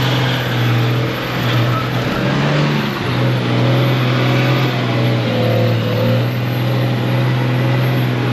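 A vehicle engine running at steady revs under a steady rushing noise. Its pitch briefly lifts and then drops back between two and three seconds in.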